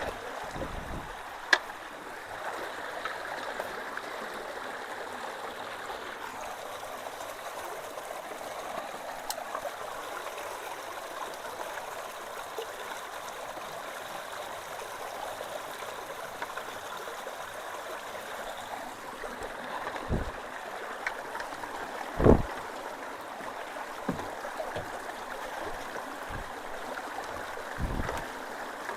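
Creek water running steadily through a culvert under a low-water crossing, with a few dull thumps, the loudest about two-thirds of the way through.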